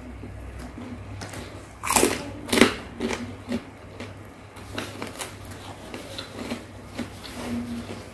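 A person biting and chewing food close to the microphone, with two loud crunchy bites about two seconds in followed by smaller chewing clicks and crackles.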